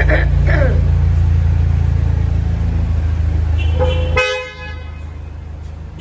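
Car engine running with a steady low drone, and a car horn honking briefly about four seconds in, just as the engine sound cuts off abruptly.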